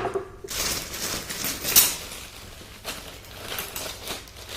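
Rustling and crackling handling noises of objects being rummaged through and picked up, with a few sharper knocks, the loudest about two seconds in.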